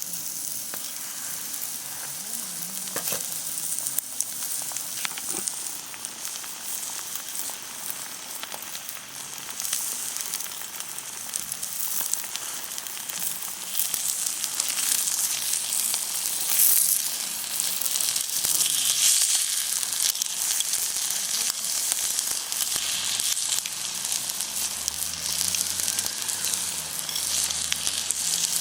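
Steak sizzling on a hot lava stone over a wood fire. The frying hiss starts suddenly and grows louder about halfway through.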